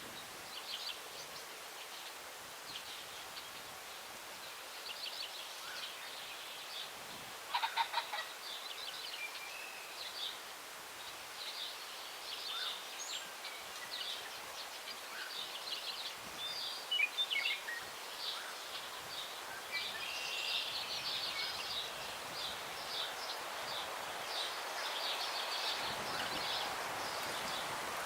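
Small songbirds chirping and singing throughout, with a loud, harsh crowing call from a ring-necked pheasant about eight seconds in. A breeze through the trees builds to a steady rushing in the last third.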